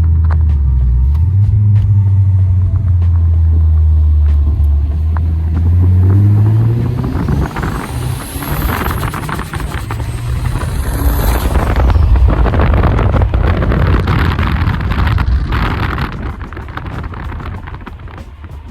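Modified Saab's turbocharged 2.0-litre Ecotec four-cylinder under way. The engine note climbs steadily, then a high whistle rises, dips and rises again midway, the big S257 turbo spooling, over loud rushing noise that eases off near the end.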